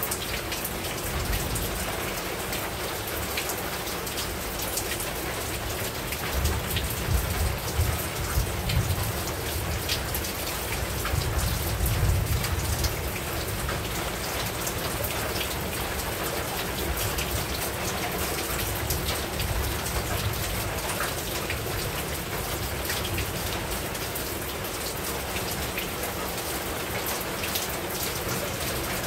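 Heavy rain falling steadily on a rooftop, a dense hiss with scattered drop strikes. A low rumble swells and fades between about six and thirteen seconds in.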